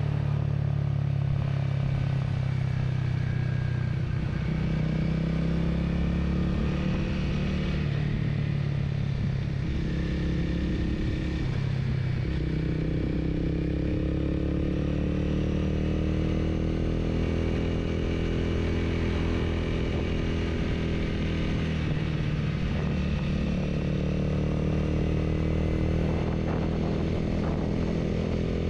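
Honda Rebel 250 motorcycle engine running under way, heard from the bike as it is ridden, its pitch rising and falling a few times with the throttle.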